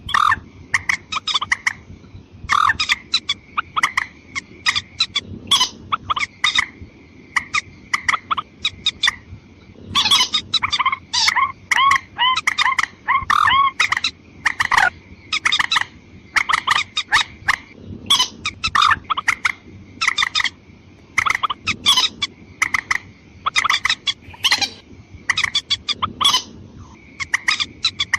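Bird-lure recording of rail calls, female and male together: clusters of sharp, repeated calls over a faint, steady high tone.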